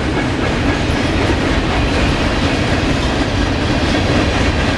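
Freight cars of a passing freight train rolling by, steel wheels clattering over rail joints with a steady rumble.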